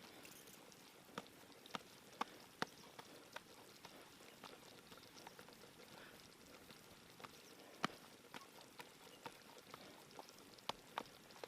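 Faint, scattered sharp clicks and pops at an irregular pace of roughly one or two a second, over a quiet background.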